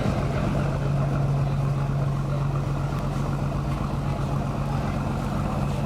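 Boat engine running with a steady, unchanging low drone.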